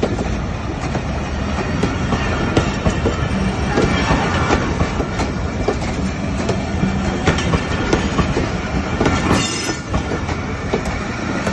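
Train running past on the tracks, its wheels clattering steadily with many rapid knocks over the rails. A short high-pitched wheel squeal comes about nine seconds in.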